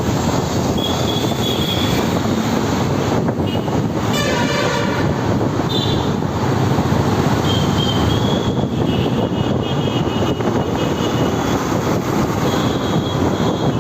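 Motorcycle riding in city traffic: steady engine and wind noise on the microphone, with a few short high tones and a brief horn-like blare about four seconds in.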